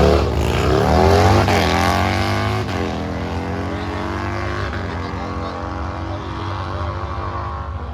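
A drag racing vehicle accelerating away down the strip, its engine pitch climbing and dropping back at each gear change, about four times, and fading as it goes.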